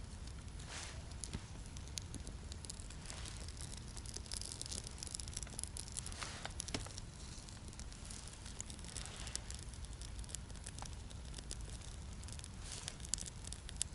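Irregular rustling, crinkling and tearing of birch bark and small twigs being handled and broken up as fire kindling, with scattered sharp clicks.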